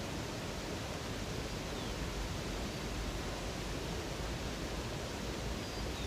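Steady rush of flowing water from a river cascade, with a couple of faint, brief high bird chirps.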